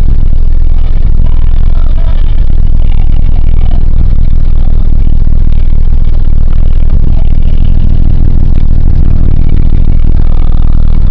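1998 Nissan Eagle pickup truck on the move: a steady, loud low rumble of engine and road noise that drives the recording to its limit.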